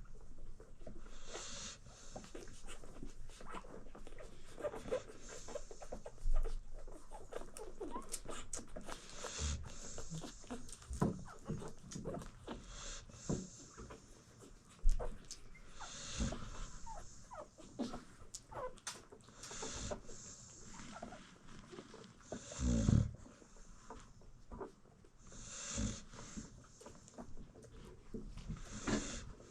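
American Bully mother dog snoring, with a breath about every three seconds, while her newborn puppies nurse with many small clicking sounds. A couple of brief knocks stand out, and one breath a little after two thirds of the way through is deeper and louder.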